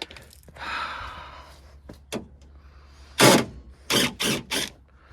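Metal scraping and knocking from hand tools working on the latch inside a GMC door. It starts with a soft rasp and a couple of light clicks, then a loud short scrape about three seconds in, followed by three shorter scrapes in quick succession.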